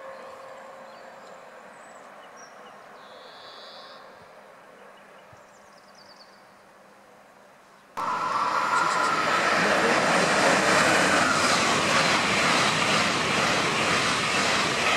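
An ICE high-speed train running through a station without stopping: a loud, steady rush of wheels and air that starts abruptly about halfway through. Before it there is only quiet trackside background with a few faint high chirps.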